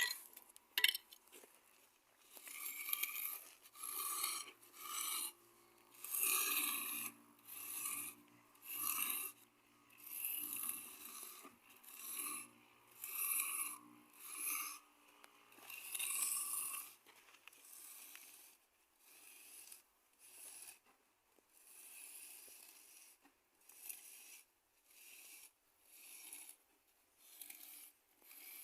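Repeated rasping strokes of a hand tool scraping and rubbing over cement, about one a second, louder in the first half and fainter later.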